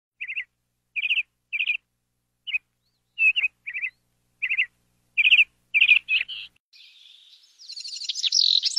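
Small birds chirping: a dozen or so short, separate chirps spaced a half-second to a second apart, then a faster, busier twittering that builds up near the end.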